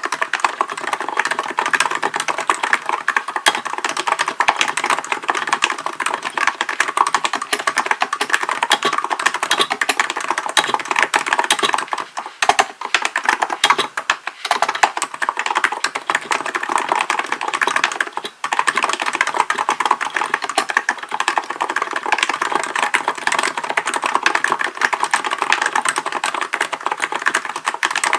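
Continuous fast typing on a Hansung GK898B electrostatic capacitive (non-contact) keyboard, a dense stream of keystrokes. It breaks off for brief pauses a few times around the middle.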